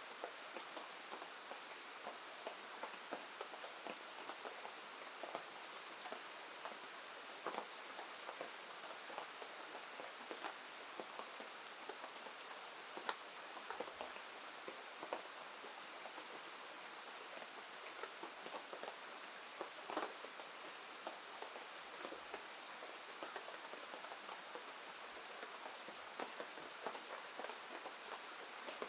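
Steady rain, with many separate drops clicking sharply and irregularly as they hit a surface.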